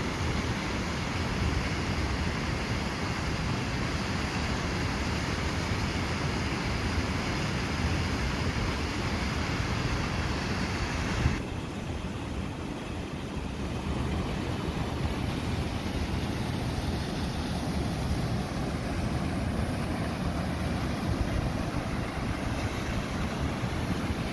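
Steady rush of falling water from a waterfall, an even roar with no rhythm. About eleven seconds in the sound changes abruptly and the high hiss drops back.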